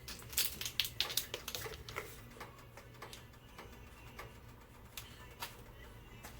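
Light, irregular clicks and taps of a metal spoon against a pot as cornstarch is spooned into milk and stirred in. The taps come quickly in the first two seconds, then sparser, over a low steady hum.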